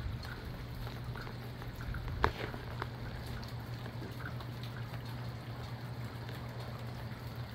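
Rain falling, with scattered drops tapping close by and one sharper tap a little over two seconds in, over a steady low hum.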